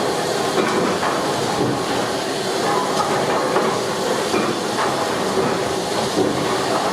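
Steam engine at work: a steady hiss of steam with irregular metallic knocks and clanks.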